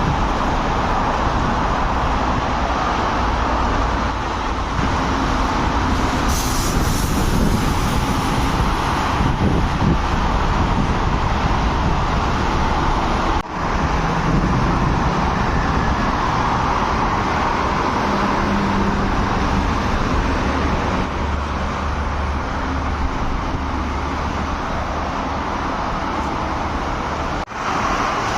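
Heavy road traffic: trucks on the road, a steady mix of engine hum and tyre noise, with a brief hiss about six seconds in.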